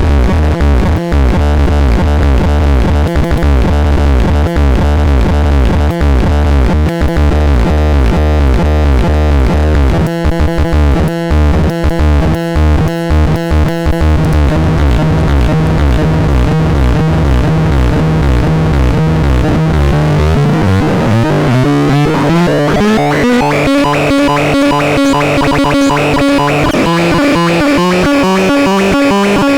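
Synthesizer sound demo: loud, sustained synth tones chopped into a fast rhythmic pattern, heavy in the bass at first, then sweeping up to higher pitched notes about two-thirds of the way in.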